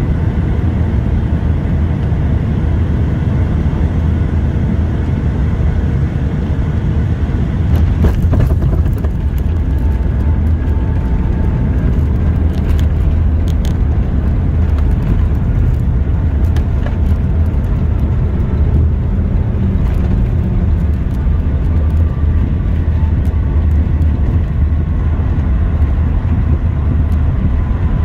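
Passenger-cabin noise of a Boeing 757-200 landing: a loud, steady low rumble, with light rattling clicks from about eight seconds in.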